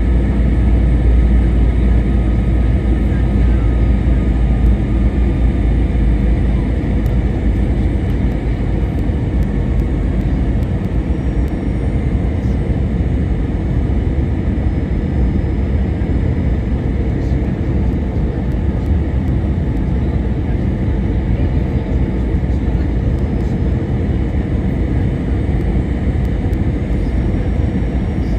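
Airbus A321-200 in flight, heard from the cabin: a steady low rumble of engines and airflow with faint, constant engine tones over it.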